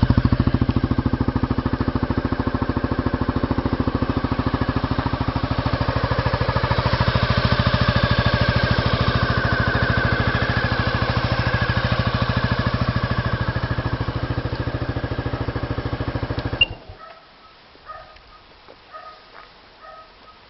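Honda Forza Z (MF10) scooter's 250 cc single-cylinder engine idling through an aftermarket Moriwaki exhaust, a steady, even putter. About three-quarters of the way through it is switched off and stops abruptly.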